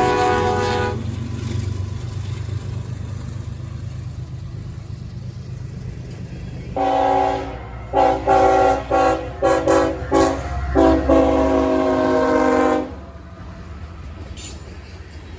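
Lead locomotive CSX 5384's multi-tone air horn sounding a sequence of blasts: a long one, then several short toots in quick succession, then a final long one. Beneath them is the steady low rumble of the approaching diesel locomotive.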